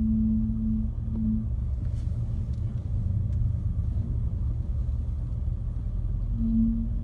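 Groaning from a 2015 Mercedes-AMG E63 S at low speed with slight steering input: a steady, even-pitched groan over the low rumble of the car rolling, stopping about a second and a half in and coming back near the end. The cause is unknown; the dealer has not found it, and the driver feels a slight vibration in the steering wheel when it happens.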